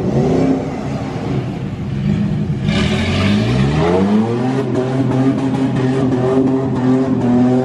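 Truck engine running through floodwater, revving up about four seconds in and then holding a steady pitch, with a short rushing noise just before the rev.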